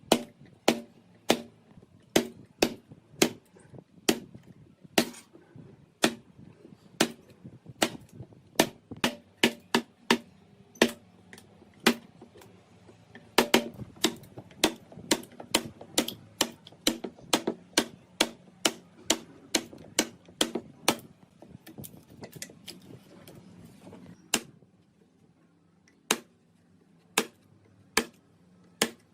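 Sharp taps or knocks repeated irregularly, about one or two a second and busier in the middle, thinning to a few single taps near the end.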